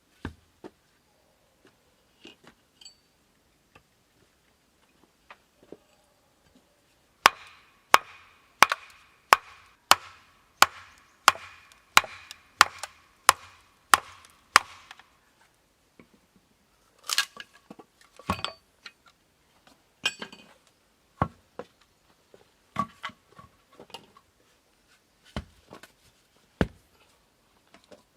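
A hand tool striking wood in a woodworking job: a few light taps, then a steady run of about a dozen sharp blows, roughly one and a half a second, each with a short ringing note, then slower scattered blows.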